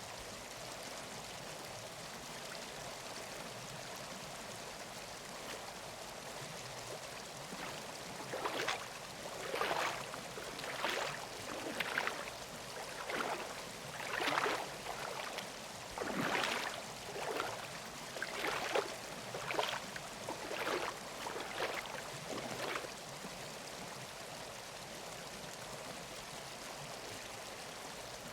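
Steady rush of a forest stream. From about a third of the way in, some fourteen footsteps fall on the trail, roughly one a second, for about fifteen seconds, then stop.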